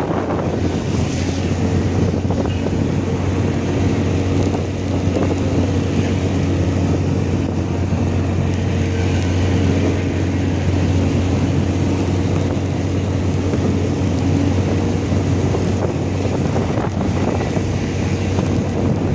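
Wind rushing over the microphone on a moving motor scooter, with the scooter's engine running steadily underneath as a low drone.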